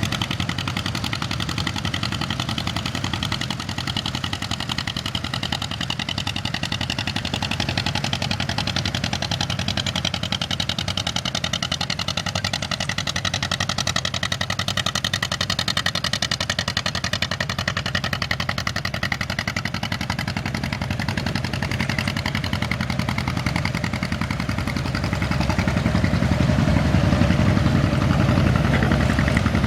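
Farm tractor engines running as tractors drive past, the engine pitch slowly rising and falling. It gets louder near the end.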